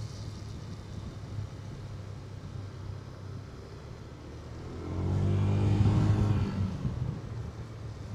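Motorcycle engine running steadily under way, with wind on the microphone. About five seconds in, a louder engine sound swells for a second or two and then fades.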